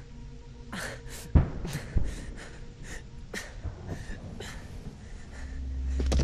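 A man breathing hard in quick, ragged gasps, the breathing of someone hurt. Two dull thumps come about a second and a half and two seconds in, and near the end a low drone swells in.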